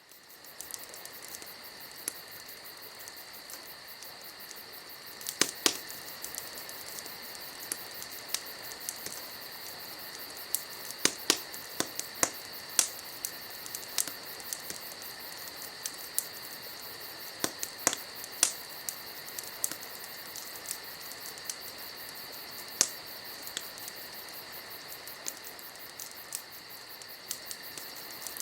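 Burning firewood crackling, with irregular sharp pops scattered through, the loudest coming around 5, 11–13 and 18 seconds in. Under it, insects chirp steadily in a high pulsing drone.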